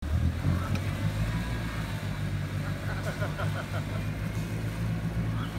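Toyota Land Cruiser 70's engine running steadily at low revs.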